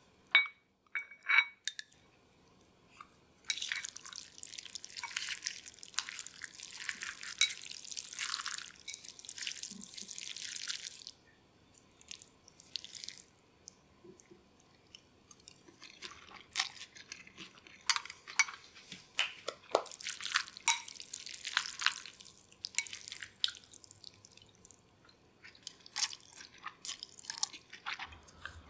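Water from a kitchen tap running and splashing in several stretches: one long run, then shorter bursts later. A few light clinks come about a second in.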